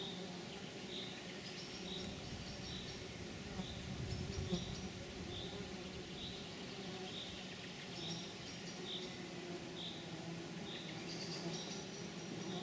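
Outdoor insect chorus: a steady low buzz of flying insects, with a short high chirp repeating about every half second and thin high trills coming and going.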